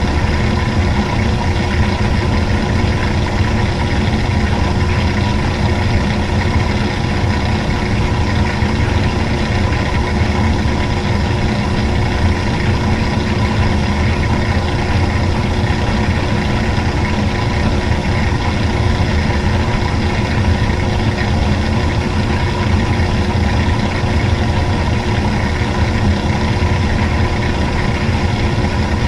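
Washing machine running steadily: an even, unbroken motor hum with a heavy low drone.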